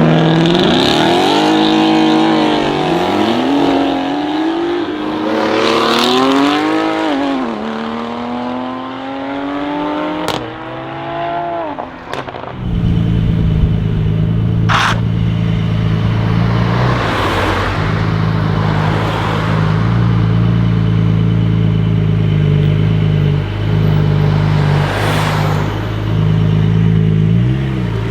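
Porsche 992 Carrera S twin-turbo flat-six revving, its pitch climbing and falling several times. About twelve seconds in the sound changes abruptly to a steady low idle, with a brief sharp click a couple of seconds later.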